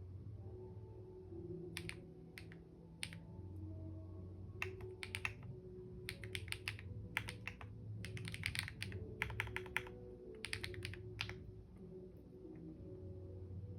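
Computer keyboard typing: irregular runs of quick keystroke clicks, starting about two seconds in and stopping a couple of seconds before the end, over a faint low hum.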